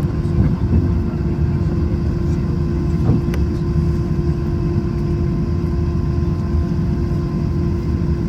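Airbus A321 cabin noise: a steady low rumble of the jet engines and airframe with a constant hum over it, and one faint tick about three seconds in.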